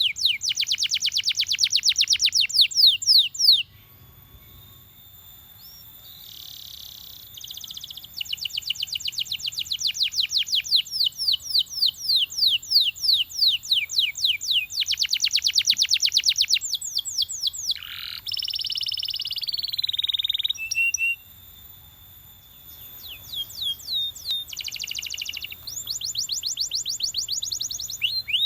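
Belgian canary singing in long, fast trills of repeated high notes, with two short pauses and a lower, buzzy rolling phrase about two-thirds of the way through.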